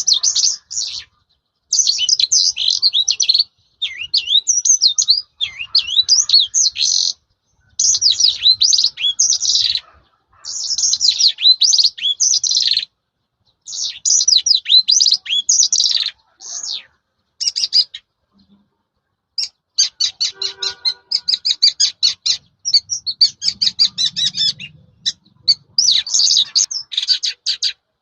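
Caged lark singing a varied song: bursts of rapid chirps, trills and sweeping whistled notes, one to two seconds long with short pauses. From about two-thirds of the way in comes a long run of fast, evenly repeated short notes.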